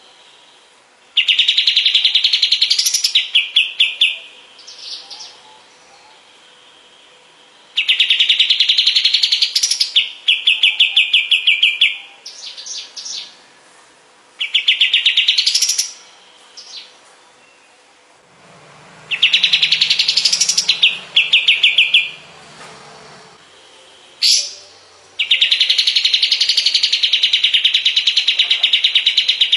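Kapas tembak songbird singing. It gives loud phrases of fast, rattling chirps, each two to four seconds long, with short pauses between, six times over.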